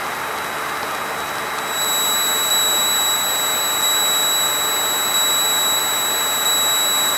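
Cessna 152's engine and propeller noise inside the cockpit, a steady rushing drone. About two seconds in, a steady high-pitched tone comes in and holds to the end.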